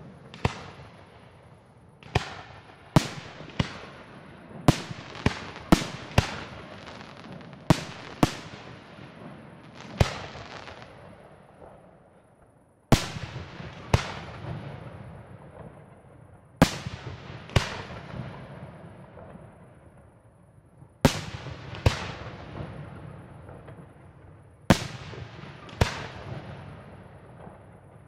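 Aerial firework shells bursting in a display: about twenty sharp bangs at irregular intervals, some in quick clusters and some a few seconds apart, each followed by a long rolling echo that fades away.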